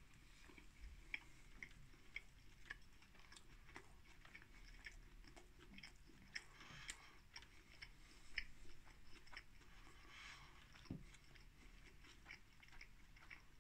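A man chewing a mouthful of microwaved doner kebab in pitta bread: faint, irregular clicks and smacks of the mouth working the food.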